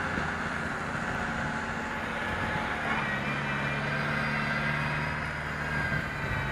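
Heavy vehicle engine running steadily, its pitch shifting about three seconds in.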